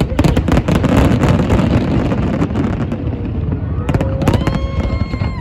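Fireworks going off in quick succession, many sharp bangs and crackles close together, densest in the first half. Near the end a whistle rises, then holds steady.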